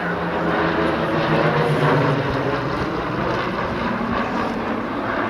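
Piston-engined warbird flying past with a propeller engine drone that swells to its loudest about two seconds in, then eases off.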